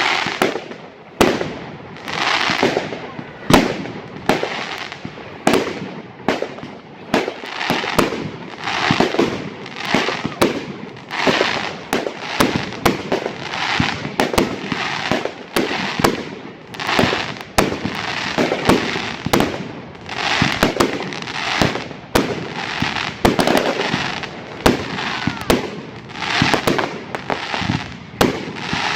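Fireworks going off in a continuous barrage: sharp bangs about two or three a second, with a steady hiss between them.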